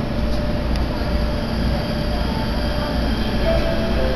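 Electric commuter train noise: a steady, fairly loud low rumble with faint whining tones that shift in pitch near the end.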